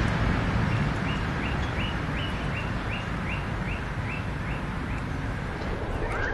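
A bird calling a quick run of about a dozen short, rising notes, roughly three a second, over a steady outdoor background rumble.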